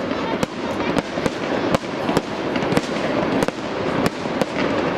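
Fireworks display: a rapid run of sharp bangs from aerial shells bursting, about two or three a second, over continuous noise.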